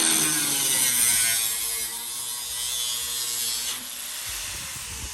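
Angle grinder cutting through the thin top layer of a Honda Civic's sheet-metal hood: a loud, steady, hissy screech that eases off somewhat about three-quarters of the way through.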